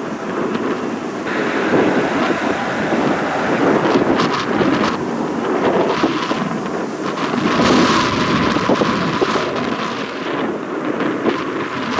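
Strong gusty wind buffeting the microphone: a continuous rushing rumble that swells around eight seconds in.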